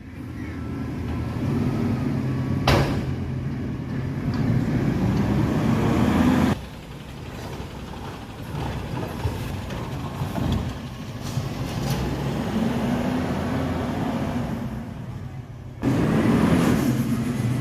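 Garbage truck engine running, with a sharp clack about three seconds in. The sound changes abruptly twice.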